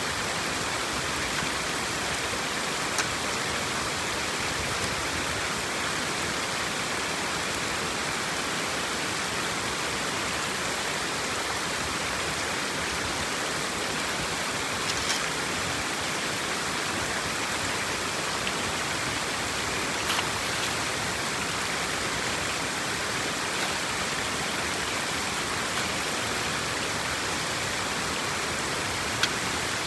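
Steady rushing water noise, even throughout, with a few faint clicks now and then.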